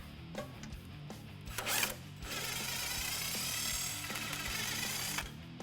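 A power tool briefly spins about one and a half seconds in, then runs steadily for about three seconds, driving out a mounting bolt. Background music with a steady beat plays underneath.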